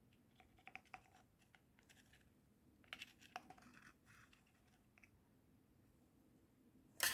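Faint, scattered light clicks and taps of small objects being handled, then a sudden loud scraping rub right at the very end.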